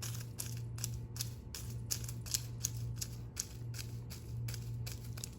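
Rapid, irregular light clicks and taps, several a second, over a steady low hum.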